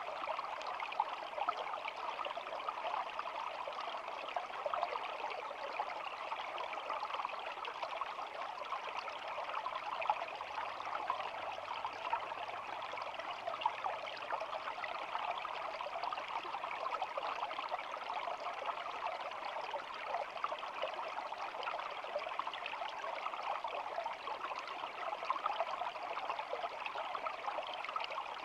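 Small stream flowing steadily over stones, babbling and trickling, with many fine splashes.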